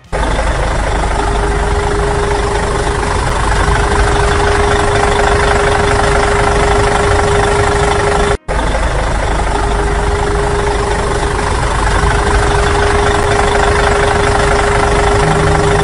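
A steady, loud engine running noise like a heavy machine idling, with a constant hum running through it. It cuts out for a moment about eight seconds in, then carries on unchanged.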